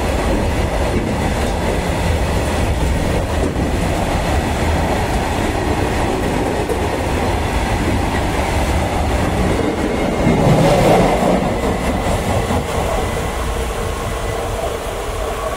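Freight train of open box wagons rolling past at close range: a steady rumble of wheels on the rails, louder for a moment about ten seconds in, then fading as the last wagons go by.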